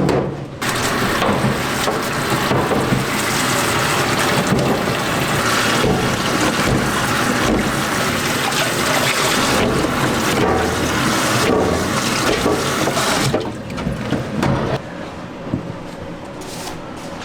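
Hot frying oil sizzling loudly in a deep fryer, a dense steady hiss that cuts off about thirteen seconds in, leaving lighter kitchen clatter.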